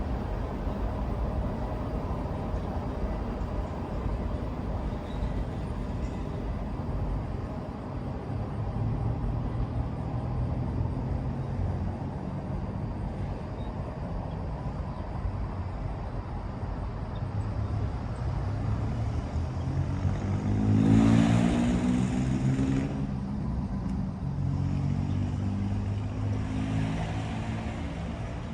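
Steady low engine rumble of motor vehicles. About two-thirds of the way through, one vehicle passes close by, louder for a couple of seconds, its pitch falling as it goes.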